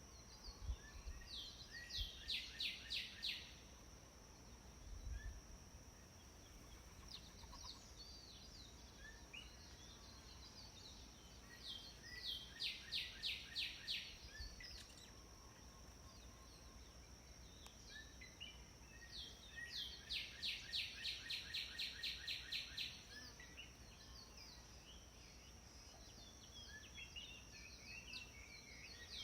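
Songbirds singing: three times a bird gives a run of quick, evenly repeated notes, about four a second, lasting one to three seconds, with scattered short chirps between. A steady high-pitched whine runs underneath.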